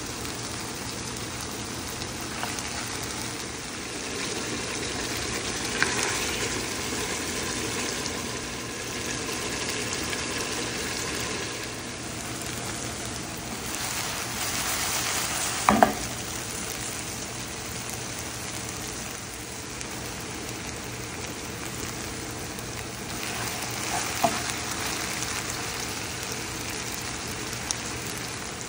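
Food sizzling as it fries in a pan with a steady hiss, and a spoon or spatula knocks against the pan a few times while stirring. The loudest knocks come in a quick cluster a little past halfway through.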